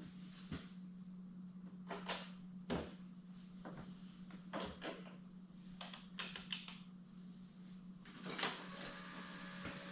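Scattered sharp clicks and light knocks, about a dozen, over a steady low hum; a faint steady tone joins near the end.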